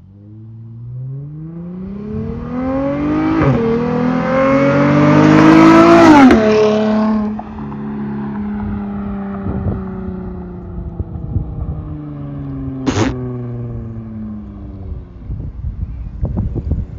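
Dodge Charger GT's 3.6-litre V6, straight-piped through Super 10 mufflers, accelerating hard with the revs climbing through two upshifts, about three and a half and six seconds in, loudest just before the second shift. It then settles into a steady drone with the revs slowly falling. A sharp click comes about thirteen seconds in.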